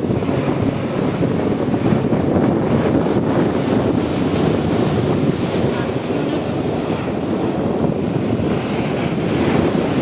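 Steady rushing of wind buffeting the microphone, rising and falling in gusts.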